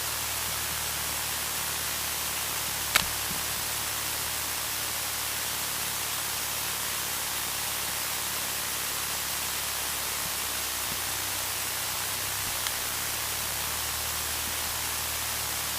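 Steady hiss from the cockpit audio feed, with the Cessna 152's engine faintly underneath as a low steady hum whose pitch shifts slightly about ten seconds in. A single sharp click about three seconds in.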